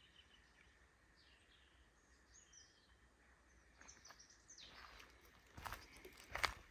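Faint birdsong, a few short chirping calls, in a near-silent outdoor quiet; near the end come a few crunching footsteps.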